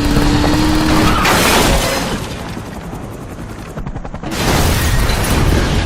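Loud action-film soundtrack: booming impacts and crashing, shattering noise mixed with a music score, easing off briefly in the middle before building up again.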